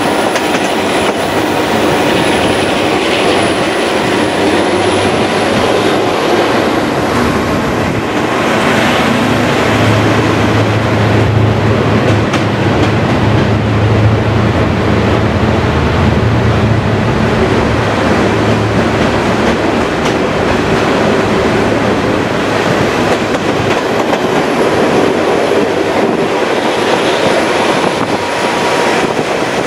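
Moving passenger train heard from an open coach: steady wheel-on-rail running noise with a thin high wheel squeal at the start and again near the end. In the middle, as the train runs through a tunnel, a heavy low rumble builds and then fades.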